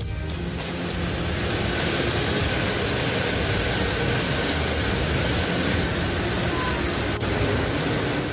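Waterfall heard close up: falling water making a steady, even rush that fills the whole range from low to very high.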